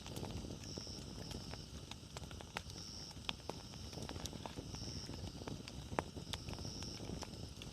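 Wood campfire burning, crackling with scattered sharp pops over a low rushing bed, two of them louder, about three and six seconds in. A faint short high chirp repeats about every two seconds over the fire.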